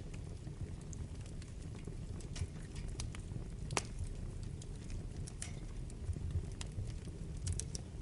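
Wood fire burning in a fireplace: a low steady roar of flames with irregular sharp crackles and pops from the burning logs, the loudest pop about four seconds in and a quick cluster of crackles near the end.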